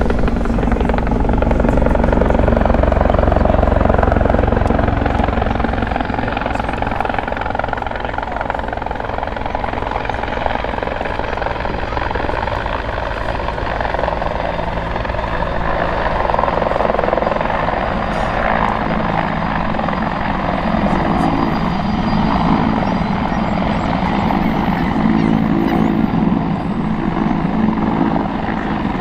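RCAF CH-146 Griffon (Bell 412) twin-turboshaft helicopter flying its display, its four-bladed main rotor and engines running continuously. The sound is loudest a few seconds in, eases a little through the middle and swells again later.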